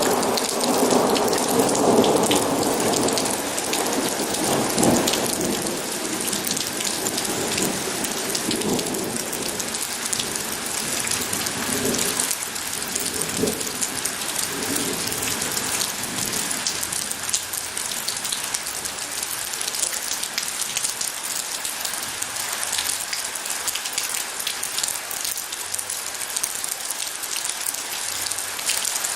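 Steady heavy rain with a low rumble of thunder that fades away over the first half.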